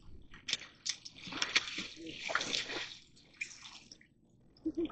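Water splashing and sloshing in irregular bursts, with a few sharp clicks, as a hooked catfish thrashes at the water's edge.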